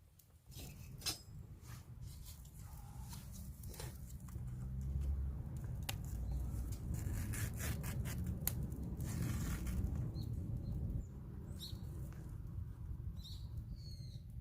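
Wood fire under a cast-iron cauldron, with a steady low rumble and irregular sharp crackles and pops.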